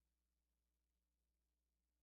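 Near silence: only a very faint steady electrical hum in a gap between narration.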